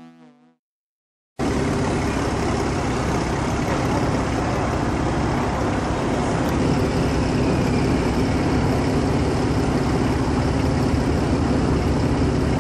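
Steady rumble of car engines running, with traffic-like background noise. It starts abruptly about a second and a half in, after a short synth tone fades to silence.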